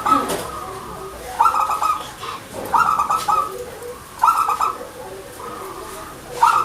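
Zebra dove (perkutut) cooing in short, rapid, stuttering phrases, about four of them with brief pauses between.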